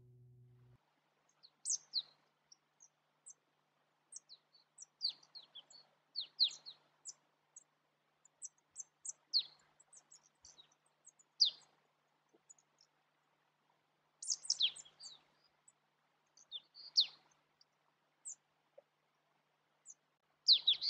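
Small birds calling: short, high chirps that drop in pitch, coming singly or in quick clusters every second or two, with the busiest bursts about two-thirds of the way through and near the end.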